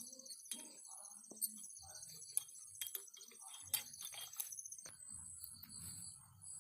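Several sharp clicks and taps, spread out, over faint low voices. Insects chirp steadily throughout.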